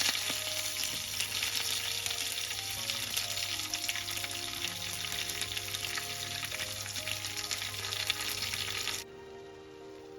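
Food frying in a pan, a steady sizzle with many small crackles, that cuts off suddenly near the end.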